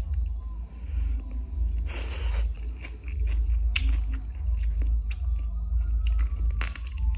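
Close-up chewing of green papaya salad: crunching and wet mouth clicks in quick succession, with a short noisy rush about two seconds in.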